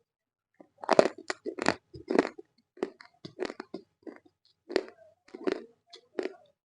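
Close-up crunching and chewing of roasted Multani mitti (fuller's earth clay): a run of irregular, sharp crunches starting about a second in, loudest at first, then spaced about half a second apart.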